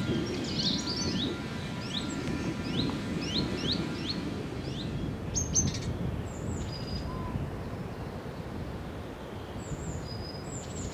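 Small songbirds singing: a run of quick, high chirping notes about twice a second for the first half, then scattered thinner high calls and whistles. A steady low rushing noise runs underneath.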